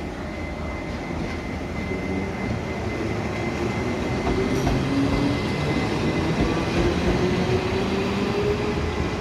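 Railway locomotive moving slowly on the rails, its motor whine slowly rising in pitch and getting louder over the second half, over a steady rumble and a faint steady high tone.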